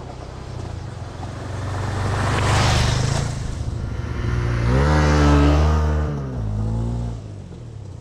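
Motorcycle engine pulling away and accelerating: its pitch climbs about five seconds in, holds briefly, then drops off about a second later.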